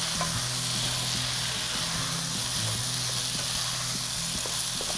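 Pasta frying in a pot over a high gas flame, with a steady sizzle as a wooden spoon stirs it, and small scrapes and knocks of the spoon against the pot.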